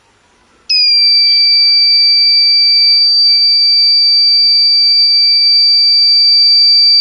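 Buzzer of a homemade transistor rain alarm sounding one loud, steady, high-pitched tone that starts about a second in and holds: water on its sensor has set it off.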